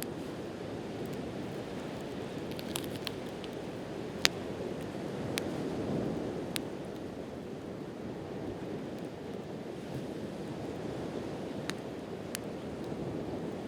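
Wood campfire crackling, with a handful of sharp pops (one loud snap about four seconds in), over the steady wash of sea waves that swells briefly midway.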